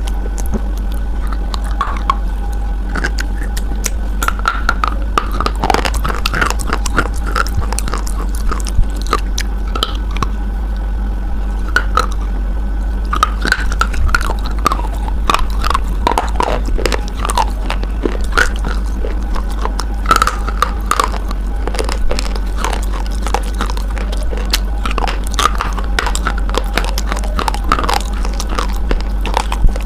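Close-up crunchy biting and chewing of a hard white chalky bar, irregular crackling crunches one after another over a steady low hum.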